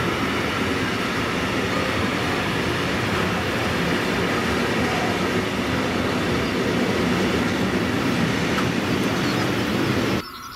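Freight train wagons carrying lorry semi-trailers rolling past at close range: a loud, steady rumble of wheels on rails, which cuts off abruptly near the end, leaving quieter open-air sound.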